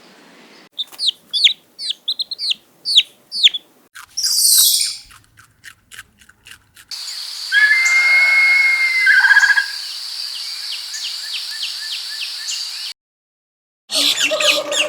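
Bird chirps: a quick run of short chirps, each falling in pitch. A brief hiss and a few clicks follow, then a held whistled note over a steady high ringing background that cuts off abruptly near the end.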